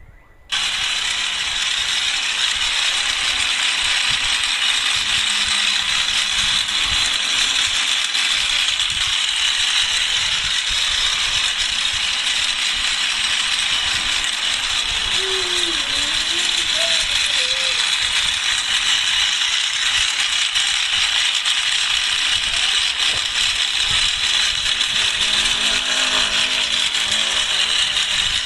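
Battery-powered toy train running on its track: the small motor and gears give a steady, dense mechanical rattle that starts suddenly about half a second in.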